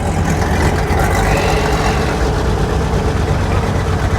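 A car engine idling steadily, a constant low rumble with a steady hum.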